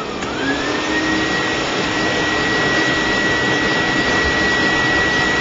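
Dog blow dryer running, its motor whine rising in pitch over about the first second as it spins up, then holding steady under a loud rush of air.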